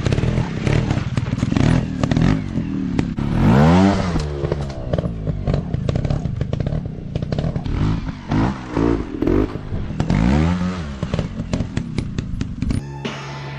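Dirt bike engine revving up and down several times, with clattering and scraping from riding over rough ground. Near the end it gives way to a steady hum.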